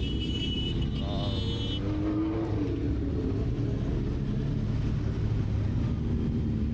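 Motorcycle engine running under way with heavy wind rumble. A high steady tone sounds over it and stops just under two seconds in.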